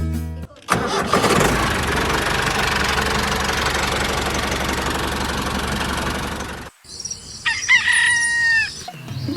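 A small engine running steadily for about six seconds and cutting off, followed by a rooster crowing about a second later.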